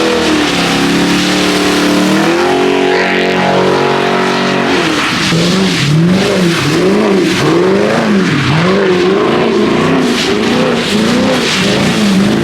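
A car engine revving: the pitch climbs over the first two seconds and holds, then from about five seconds in it rises and falls again and again, roughly every 0.7 s, as the throttle is worked on and off while the car is slid on wet pavement.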